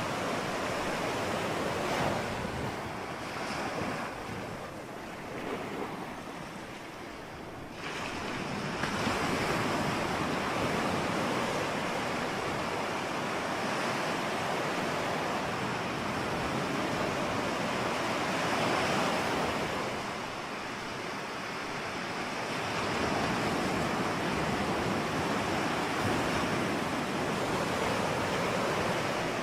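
Ocean surf: a continuous rush of waves breaking and washing in, swelling and easing, with a wave crashing in suddenly about eight seconds in after a quieter lull.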